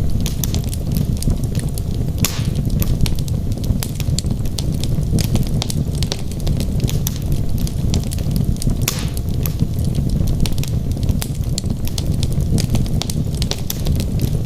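Wood fire burning in a fireplace: a steady low rumble of flames with constant sharp crackles and snaps from the logs, and a couple of louder pops, one about two seconds in and another about nine seconds in.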